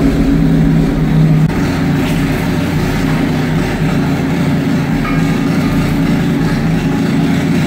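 Toyota 3S-GE 2.0-litre four-cylinder engine of a custom offroad buggy running steadily, a continuous low drone.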